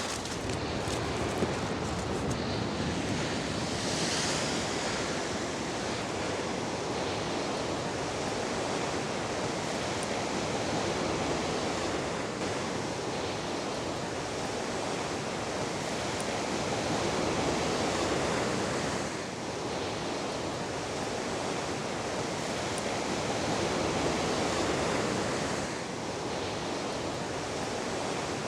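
Pacific Ocean surf breaking on the beach below, a steady rushing that swells slowly as waves come in.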